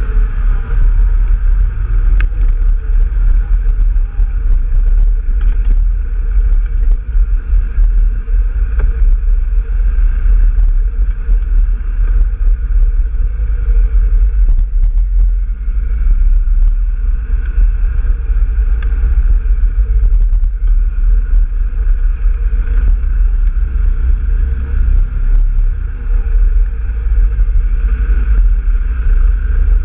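Off-road vehicle engine running steadily while riding a trail, with heavy wind buffeting on the microphone.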